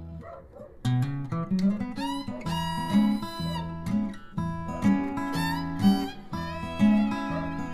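Background music: acoustic guitar playing, with a brief lull in the first second.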